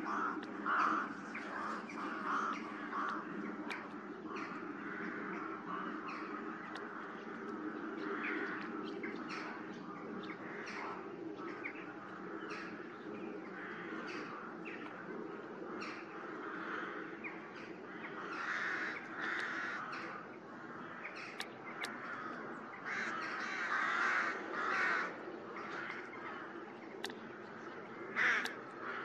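Birds calling repeatedly in short calls, in clusters that grow louder several times, over a steady low hum.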